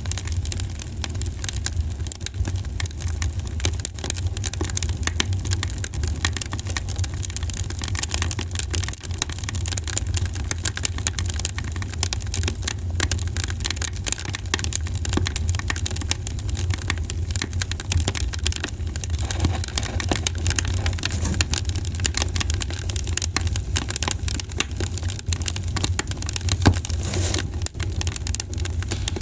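Campfire crackling: a dense run of small pops and snaps from the burning wood, over a steady low rumble.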